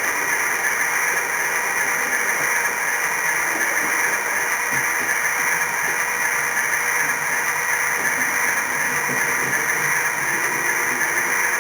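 H0-scale model train running along the track, heard from close up on the train: a steady whirring hiss of the small motor, gears and wheels, with faint irregular rattling underneath.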